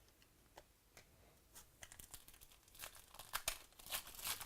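Trading-card pack wrapper being torn open and crinkled by hand. The rustling starts faint and grows busier and louder in the second half.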